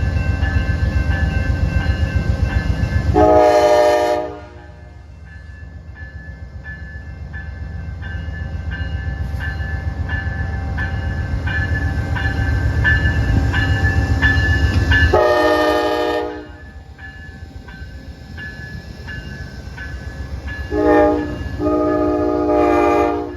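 Amtrak P42 diesel locomotive departing. Its horn sounds two long blasts, then a short and a long one near the end: the long-long-short-long signal for a grade crossing. Under the horn, the diesel engine's heavy rumble builds as the train pulls away and eases off after the second blast, with a faint bell-like ringing about twice a second.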